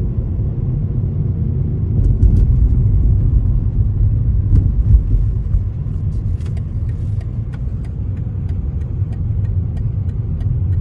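Steady low rumble of a car driving along a road, heard from inside the moving car, with faint light clicks from about two seconds in.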